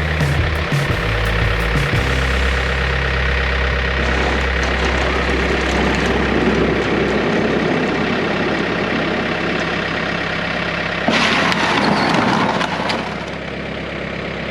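John Deere 110 backhoe's diesel engine running, its low note shifting during the first several seconds and then settling. About eleven seconds in, a louder harsh noise lasts around two seconds.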